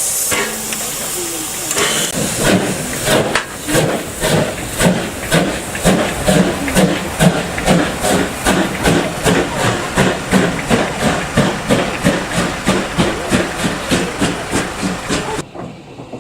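Steam locomotive letting off a loud hiss of steam, then from about two seconds in working away with a steady beat of exhaust chuffs, about two a second. The sound cuts off suddenly near the end.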